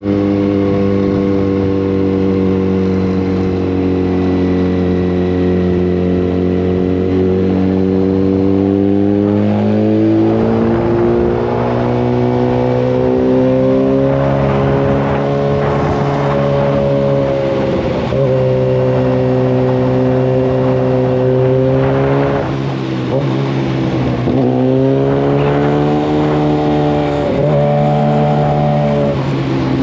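Yamaha FZ1 Fazer's inline-four engine running through a Mivv GP exhaust with the dB killer removed, heard on the move. The engine note climbs slowly, then dips briefly and picks up again several times in the second half as the revs change.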